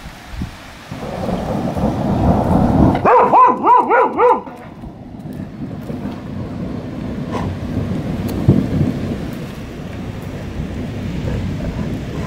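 Thunder rumbling over steady rain, and about three seconds in a border collie barks five times in quick succession.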